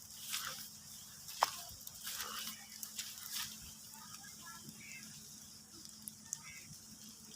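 Light rain: a soft hiss with scattered drips and taps, one sharper tap about a second and a half in.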